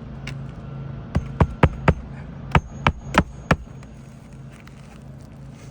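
Hammer driving roofing nails into asphalt shingles: eight sharp strikes in two quick groups of four, some with a brief metallic ring.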